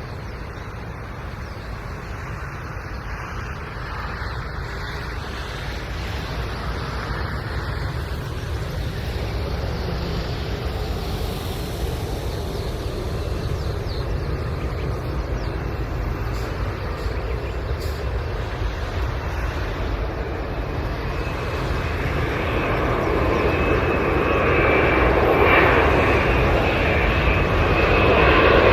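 Boeing 787-10 twin-engine jet airliner on landing approach. Its engine noise grows steadily louder as it comes nearer, and a high whine joins in over the last few seconds.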